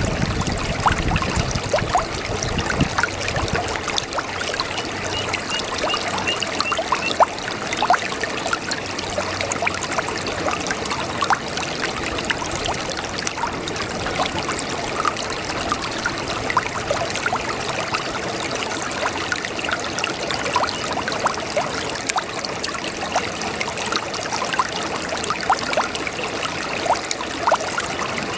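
A shallow brook babbling over stones: a steady rush of running water dotted with many small irregular splashes and trickles.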